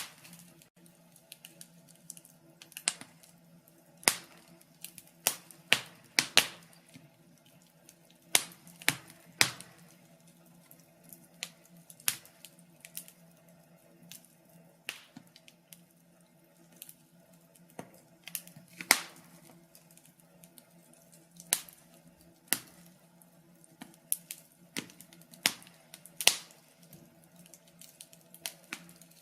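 Wood fire crackling: irregular sharp pops and snaps, one or two a second, over a faint steady low hum.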